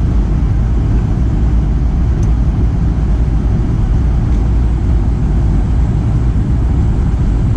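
Steady, even low rumble with no breaks or changes.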